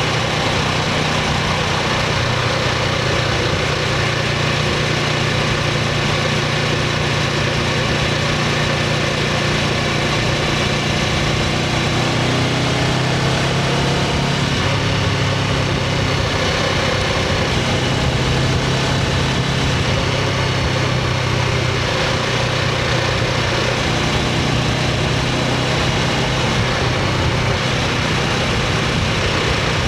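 The stock exhaust of a 2024 Honda CBR500R's parallel-twin engine running steadily, its pitch shifting a little around the middle.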